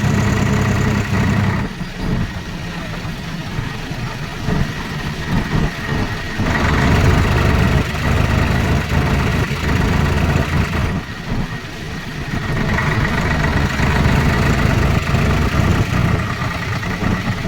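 Swaraj 4x4 tractor's diesel engine running under way, swelling louder for several seconds at a time and easing off between: louder near the start, again from about six to eleven seconds in, and from about thirteen seconds on.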